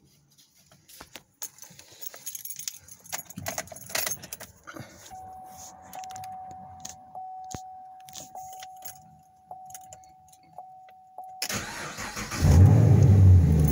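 Keys jangling and clicking in the ignition, then a steady electronic tone with a faint tick about every second. Near the end the starter cranks and the Camaro's 6.2-litre V8 fires, jumping to a loud, deep idle. The owner says a broken intake plastic piece has gone into the engine.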